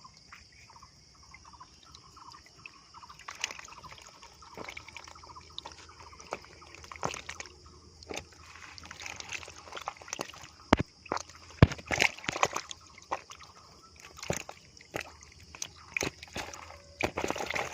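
Water sloshing and splashing in irregular bursts that grow busier and louder after a few seconds, over a steady high-pitched hiss.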